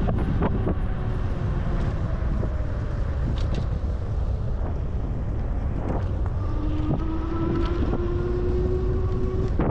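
Steady wind rumble buffeting the microphone during a bicycle ride, with a faint steady hum joining in the last three seconds.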